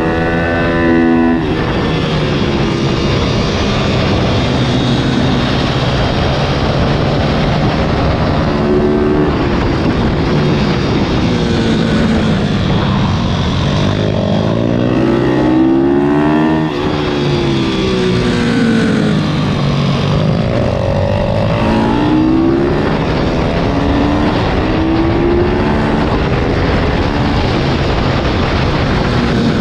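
Pit bike's single-cylinder four-stroke 160 cc engine (IMR YX160) being ridden hard, its pitch rising and falling again and again as the throttle is opened and closed, with rushing wind noise throughout.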